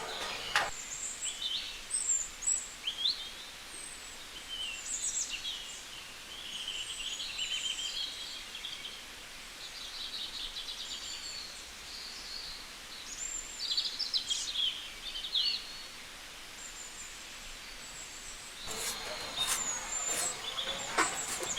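Several wild birds chirping and trilling in short, repeated calls. There is a knock about half a second in and a burst of knocking and clatter near the end.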